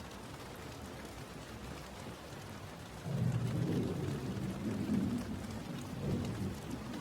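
Steady rain falling, with a low rumble of thunder breaking in about three seconds in and rolling on to the end.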